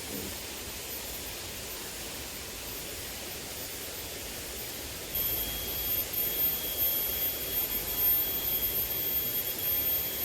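Steady rushing of a small river. About halfway in, a thin, high-pitched steady whine starts and holds on.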